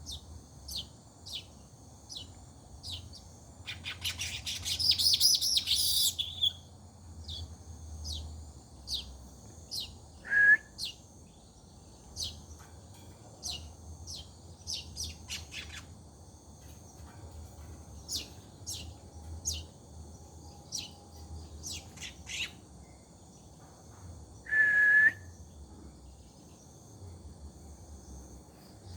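Manyar weaver birds calling: a run of short, high, quick chirps throughout, with a dense chattering burst about four seconds in. Two louder short whistled notes stand out, one about ten seconds in and one near twenty-five seconds, over a faint steady high-pitched drone.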